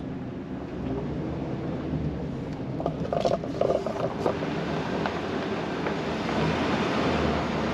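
Pickup truck creeping down a steep dirt forest road in low-range four-wheel drive: a steady low engine hum with tyre and road noise.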